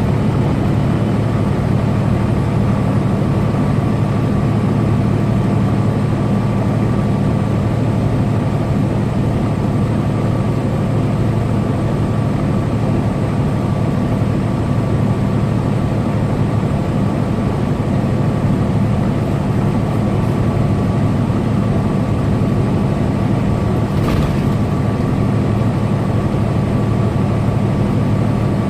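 Semi truck cruising at steady highway speed: a constant low engine drone with road and wind noise and a faint steady whine. A single short click near the end.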